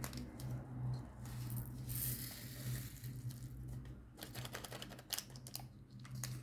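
Plastic bags of diamond-painting resin drills rustling, with small sharp plastic clicks as the drills and storage jars are handled, clicking most densely near the end. A low steady hum runs underneath.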